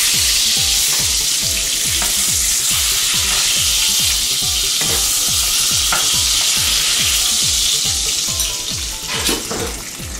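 Wild duck breasts searing in hot bacon fat in a frying pan: a loud, steady sizzle, with a few clicks of metal tongs in the pan, that drops away about nine seconds in. A steady low beat runs underneath.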